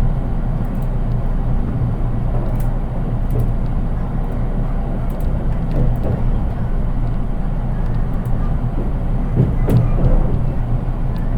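Interior running noise of a JR East 183 series electric train, heard in its unpowered KuHa 183 driving trailer car: a steady low rumble of wheels on rail with light scattered clicks. A brief louder clatter comes about ten seconds in.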